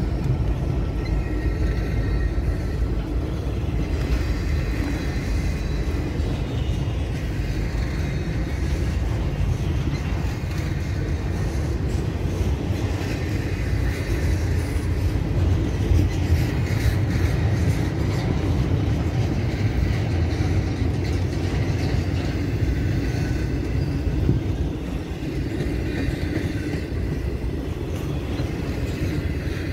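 Norfolk Southern double-stack intermodal freight train rolling steadily past at close range: the continuous rumble of container well cars, wheels on rail.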